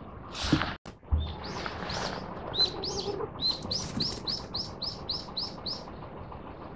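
A songbird singing a run of about a dozen short, high repeated notes that come faster toward the end. There is a brief loud noise about half a second in, and a steady background hiss throughout.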